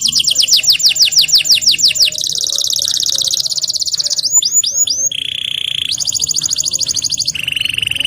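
Domestic canary singing a long, loud song of rapid repeated phrases. It opens with a run of falling sweeps about five a second, changes at about two seconds into a fast high trill, then gives a few rising sweeps, a lower buzzy roll, another fast trill and a lower roll near the end.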